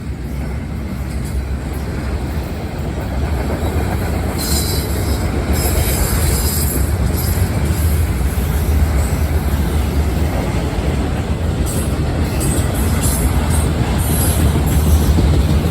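A Norfolk Southern freight train's cars rolling past close by with a steady deep rumble, growing slightly louder. High-pitched wheel squeal comes in twice: about four seconds in and again for the last few seconds.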